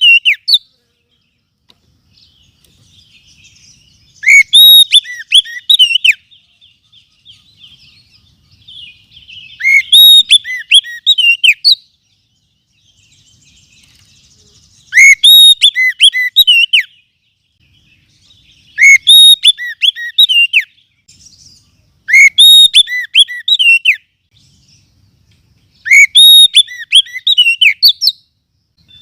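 Oriental magpie-robin song played back as a lure-call recording: loud whistled phrases of about two seconds, repeating every four seconds or so, with faint twittering between them.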